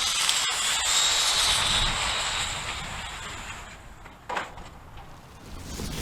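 Redcat Volcano RC car running at speed, its motor and drivetrain giving a high whine that fades away over about three seconds as the car runs off. A short falling squeal about four seconds in, then the whine starts to build again near the end.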